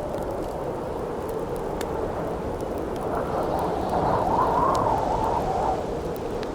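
Steady howling wind that swells for a couple of seconds midway, over a campfire crackling with scattered sharp pops.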